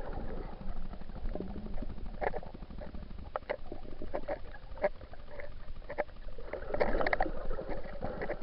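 Water moving and gurgling around an action camera in a waterproof housing while snorkelling: a steady low rumble with scattered sharp clicks and knocks, busier for a moment about seven seconds in.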